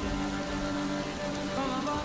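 Rain falling steadily, a constant hiss of drops, with a music score of held notes underneath.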